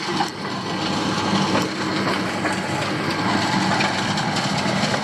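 Asphalt milling machine grinding up old road asphalt: a steady crushing, grating noise with small cracks, over the constant drone of its engine.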